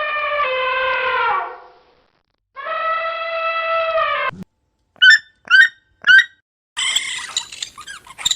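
Two long, steady animal calls, the first falling in pitch at its end. They are followed by three short, high chirps and then a harsher, noisier call near the end.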